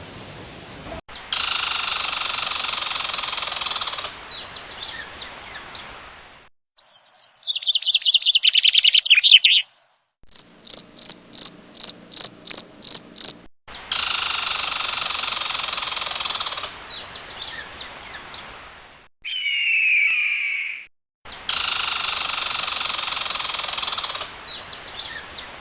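A string of abruptly cut insect and bird sounds. A buzzing chorus returns three times, with a falling trill, a run of about four chirps a second and a short falling whistle between them.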